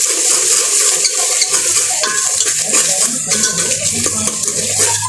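Onions and ginger paste sizzling in hot oil in a pan, with a spoon scraping and clinking against the pan as they are stirred.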